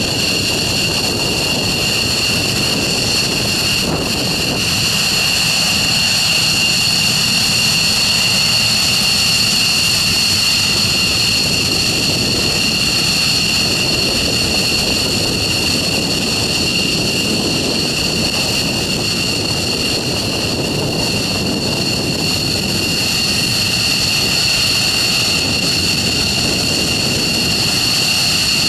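F-15 Eagle fighter jets with their twin Pratt & Whitney F100 turbofans running while parked: a loud, steady rush of jet noise with a high, unchanging whine on top.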